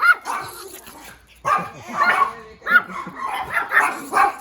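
Puppy barking repeatedly in short, high-pitched yaps, coming in several quick bunches.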